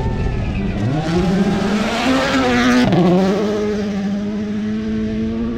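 Rally car engine accelerating hard, its pitch climbing steeply and loudest around two to three seconds in. A brief dip at a gear change just before three seconds, then the engine holds at high revs.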